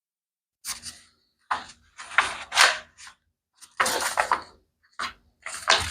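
Sheet of wax-decorated paper rustling and crinkling in irregular bursts as it is handled and folded over into thirds, starting after a brief pause.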